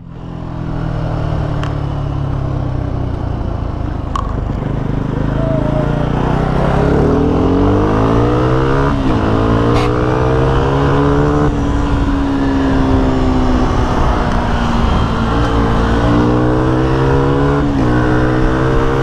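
Motorbike engine running on the road: a steady note for the first few seconds, then climbing in pitch under acceleration from about six seconds in, falling back and climbing again several times as the throttle is opened and eased.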